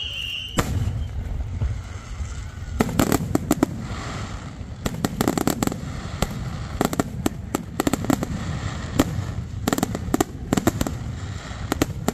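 Fireworks display: aerial shells going off, with repeated clusters of rapid sharp crackling pops every second or two over a steady low rumble.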